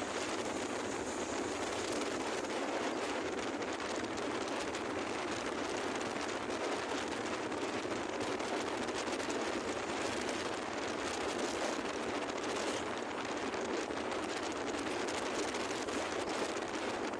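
Steady rushing noise of a moving vehicle with wind buffeting and crackling on the microphone, unchanging throughout.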